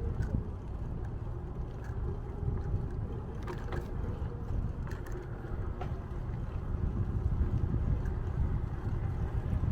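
Low, steady rumble of wind buffeting the microphone and tyre noise during a bicycle ride, with a few light clicks and rattles, the clearest about three and a half seconds in.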